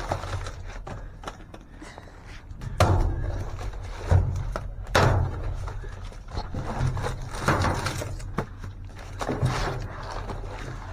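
A run of dull thuds and knocks, about five louder ones spread through, over a steady low hum.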